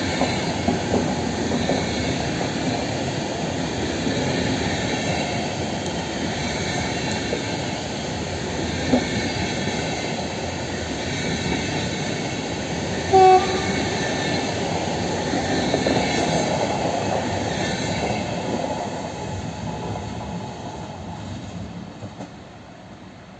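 Intercity passenger train hauled by a Siemens Taurus electric locomotive passing at speed, with steady wheel and rail noise. A short blip of a horn sounds about 13 seconds in, and the noise fades over the last few seconds as the train moves away.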